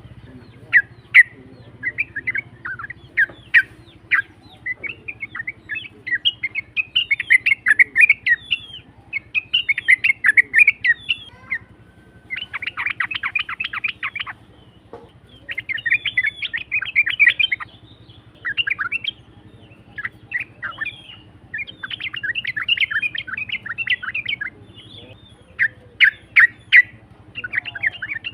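Yellow-vented bulbul (trucukan) song as used for a lure recording: rough, chattering phrases repeated almost without pause, with a fast rattling trill about twelve seconds in and more rattling bursts later.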